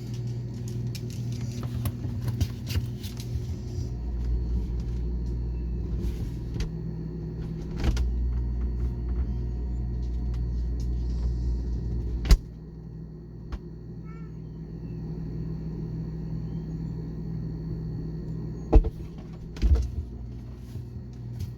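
Steady electrical hum of a refrigerator heard from inside the closed fridge, muffled, with a deeper rumble during the first half. A few dull knocks break in, one about twelve seconds in and two close together near the end.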